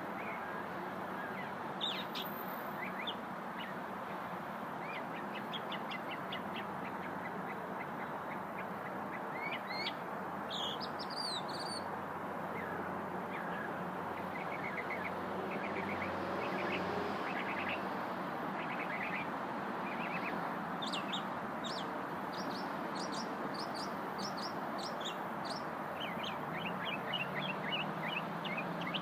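A small songbird singing: phrases of quick, high chirps and trills, repeated with short pauses, over a steady background hiss.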